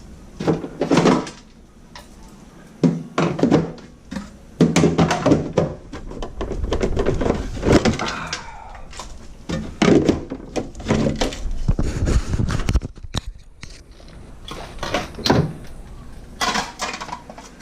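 Irregular thunks, knocks and clatter of jars, bottles and food containers being taken out of a fridge and thrown away, with a fridge door or shelf knocking now and then.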